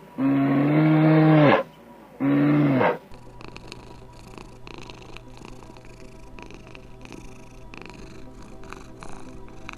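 An animal calling twice: two loud, steady-pitched calls, the first about a second and a half long, the second shorter. Then quieter faint clicks over a low hum.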